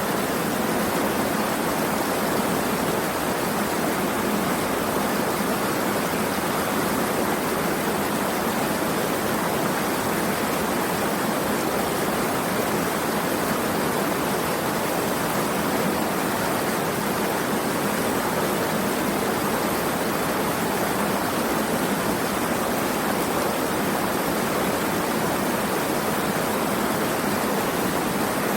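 Running water making a steady, even rushing sound that does not change.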